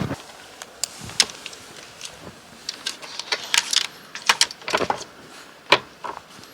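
Irregular sharp clicks and a metallic jangle, with footsteps; the clicks cluster most densely about three to five seconds in.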